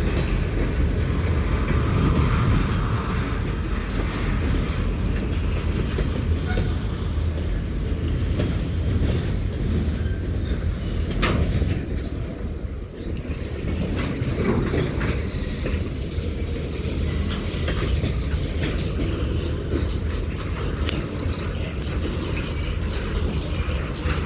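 Railroad cars rolling slowly: a steady low rumble with occasional sharp metallic clanks.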